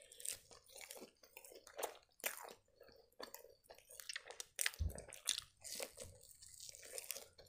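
Quiet, close-miked chewing and biting of grilled pancake rolls (blini) stuffed with chicken, heard as irregular short mouth clicks, with a soft low thump about five seconds in.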